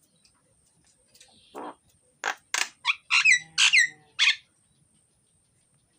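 Jalak (starling) in full song: after a faint call, a run of loud, varied calls from about one and a half to four and a half seconds in.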